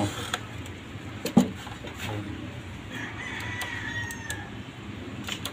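A single sharp click about a second and a half in, then a faint, long, drawn-out bird call lasting about a second and a half, falling slightly in pitch.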